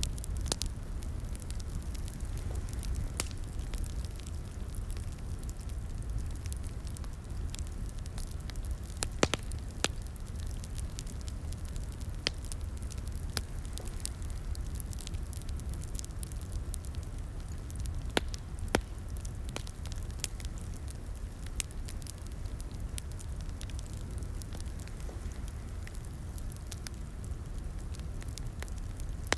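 Crackling fireplace: wood fire burning with a steady low rumble and scattered sharp pops and snaps, a few louder ones around a third and two thirds of the way through.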